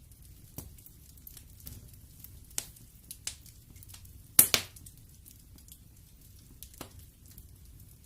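Wood fire crackling in a fireplace: scattered sharp pops and snaps over a low, steady background hiss, with the loudest double pop about halfway through.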